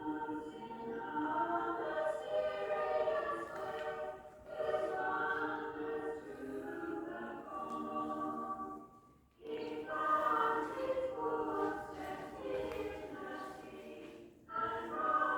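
Choral music: a choir singing sustained phrases, with short breaths between phrases, about four seconds in, after about nine seconds and near the end.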